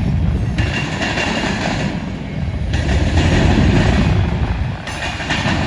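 Freight train of grain hopper cars rolling past, with a steady heavy rumble of steel wheels on rail. A higher rushing noise comes and goes every second or two.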